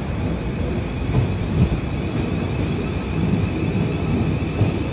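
A train running through the station: a steady low rumble with a faint steady high tone above it.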